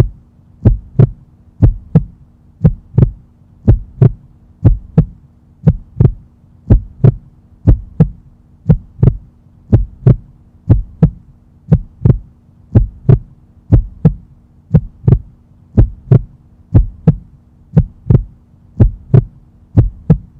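Heartbeat sound effect, a steady lub-dub about once a second, over a constant low hum.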